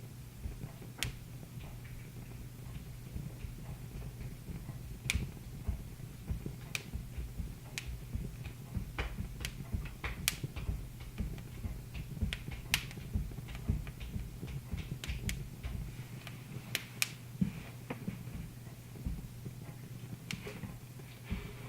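Wood fire in a fireplace crackling, with irregular sharp pops and snaps, some loud, over a low steady hum.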